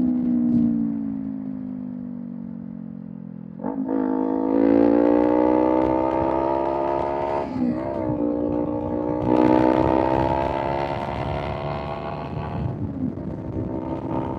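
Kawasaki Z400 parallel-twin with a Villain M1 aftermarket exhaust. The engine note falls as it slows over the first few seconds, then a gear change near four seconds and the revs climb under acceleration. Another quick gear change comes about eight seconds in, the pitch climbs again, and the exhaust quietens as the throttle eases off near the end.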